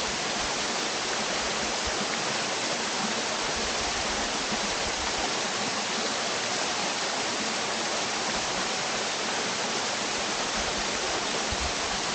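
Waterfall on a small brook: water pouring and splashing in a steady, even rush.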